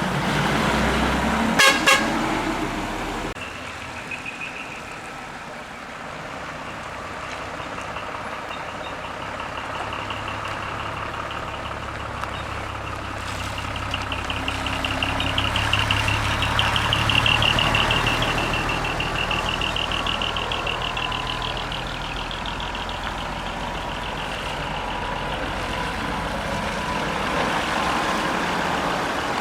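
Heavy decorated truck's engine running as the truck moves off, with a sharp double blast about two seconds in and horn toots. A wavering high tone swells in the middle.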